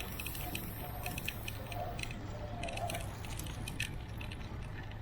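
Light metallic rattling and ticking from a bicycle being ridden, made up of irregular short clicks and jingles over a steady low rumble of wind and road.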